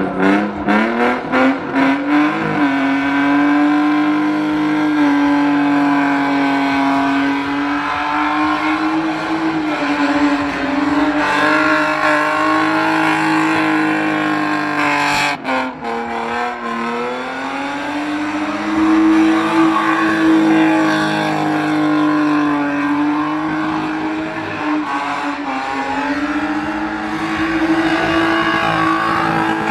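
BMW E36 sedan's engine held at high revs as it spins donuts, rear tyres spinning and smoking on the asphalt. The revs climb in the first couple of seconds, dip briefly about halfway through, then rise again.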